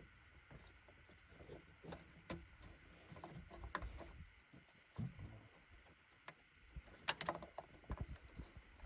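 Faint, scattered clicks and knocks of hand tools and metal parts being handled in an engine bay during starter removal, with a brief cluster of sharper clicks about seven seconds in.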